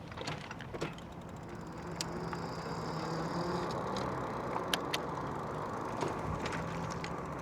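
Riding noise from an electric bicycle running mostly on throttle: steady wind and tyre noise, with a few sharp clicks and a brief thin whine near the middle.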